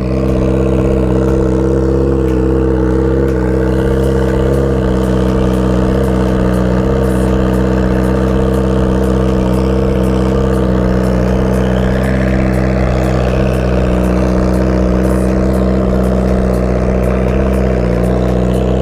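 Kawasaki Ninja sport bike's inline-four engine idling steadily, warming up after a cold start.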